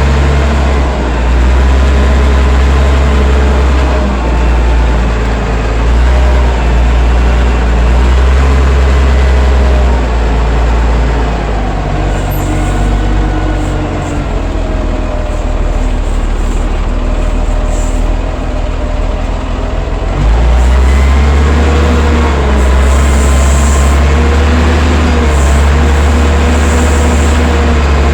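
Allis-Chalmers 940 wheel loader's engine running under load. It eases off for several seconds in the middle and picks up again about twenty seconds in, with a wavering whine over it.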